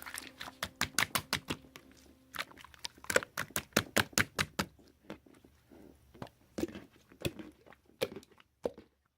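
Slime being squeezed and pressed by hand, making sharp, irregular clicks and pops several times a second. Soft background music fades out about two seconds in.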